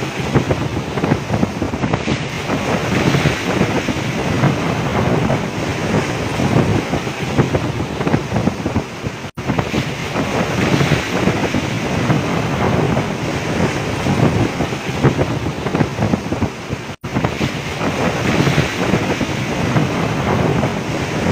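Storm wind buffeting the microphone over heavy waves washing and breaking around a fishing boat at sea. The noise is loud and continuous, broken only by two momentary drop-outs.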